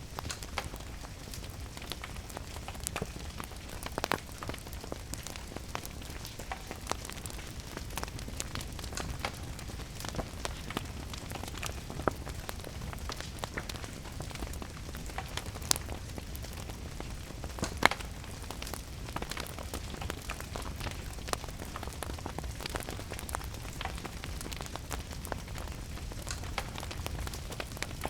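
Wood fire crackling with scattered sharp pops, a few louder ones about 4, 16 and 18 seconds in, over a steady hiss of rain.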